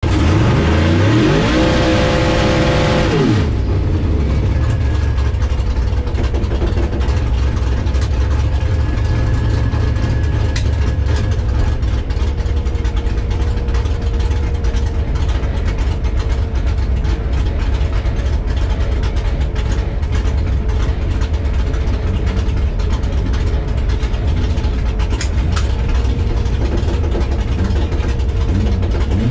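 Drag-race Ford Maverick's 427 V8 heard from inside the cabin. It is revved up over about a second and a half, held briefly, then dropped back about three seconds in to a loud, steady idle.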